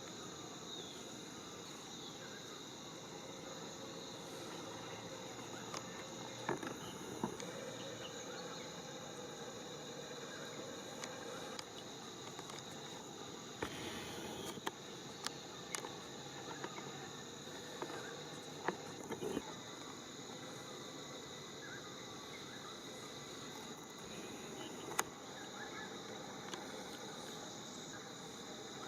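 A steady, high-pitched insect chorus, with a few short clicks and rustles scattered through it.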